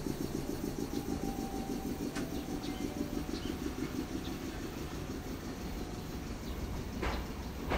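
Choshi Electric Railway 3000 series train running at the station, a low pulsing rumble that fades away over the first few seconds. Two sharp clicks come near the end.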